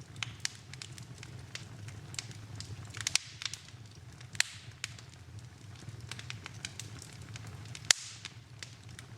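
Fireplace fire crackling, with irregular sharp pops, the loudest about eight seconds in, over a low steady rumble.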